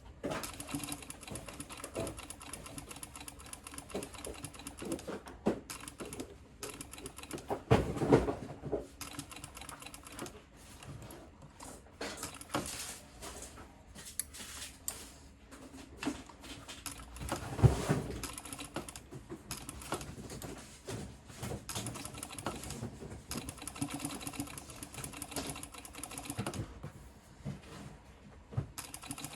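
Sewing machine with a binder attachment stitching binding tape in stop-and-start runs of rapid stitching, with louder knocks about eight and eighteen seconds in.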